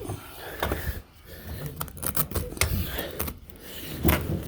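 Carpet being trimmed along the molding with a knife: irregular rasping cuts and sharp clicks.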